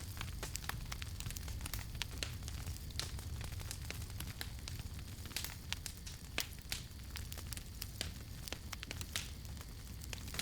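Wood campfire burning, with irregular sharp pops and crackles over a steady low rumble of the flames.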